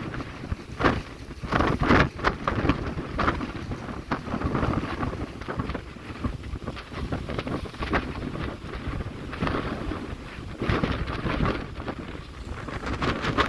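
Wind buffeting the microphone in irregular gusts aboard a harbour ferry, over the rush of the sea.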